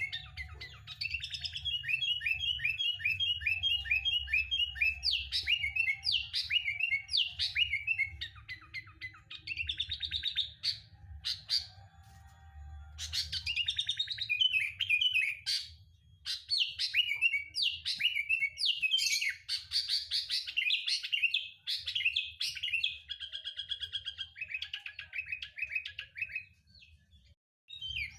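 Sooty-headed bulbul singing: bursts of rapid chirps and quick warbled phrases, with short pauses between bursts, over a faint low hum. This is a prompting song played to get caged bulbuls to sing.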